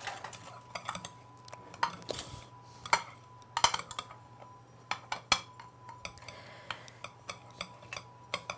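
A utensil stirring a dry breadcrumb-and-Parmesan mixture in a bowl, with irregular clinks and knocks against the bowl, a few a second.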